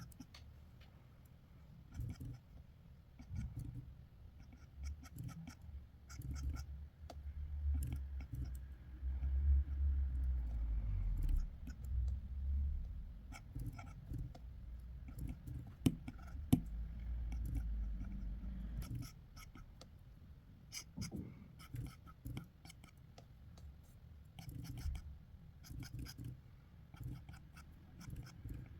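A drawing tool scratching on paper in short sketching strokes, with light ticks as it lifts and touches down. Through the middle the strokes come over a louder low rubbing rumble, with two sharp ticks a little past halfway.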